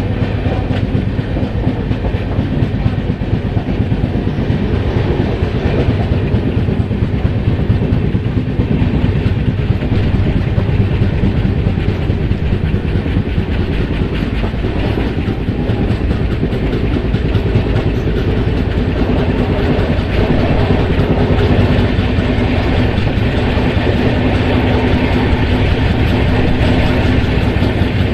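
Train moving along the track: a steady rumble with the clatter of wheels over the rails.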